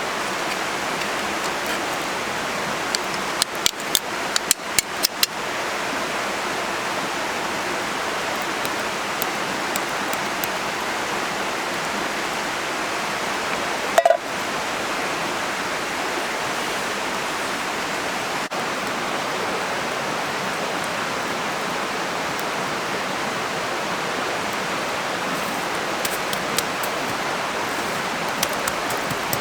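Steady rushing noise like rain or running water, with a quick run of sharp clicks a few seconds in and a single louder knock near the middle.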